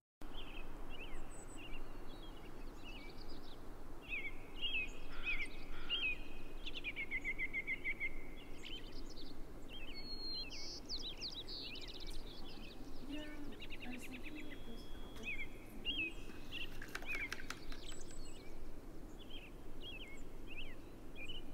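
Several wild birds singing and calling: short chirps, whistled notes and a rapid trill about seven seconds in, over a steady low background hiss.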